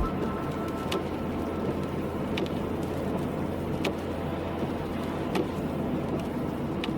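Car driving in rain: steady road and engine noise with a low hum, and a faint tick repeating about every second and a half.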